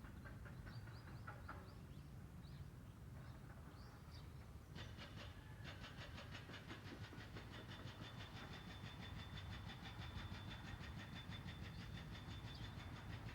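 Faint outdoor ambience: a few bird chirps, then, about five seconds in, a rapid steady pulsing trill typical of a singing insect such as a cicada starts and carries on, over a low rumble.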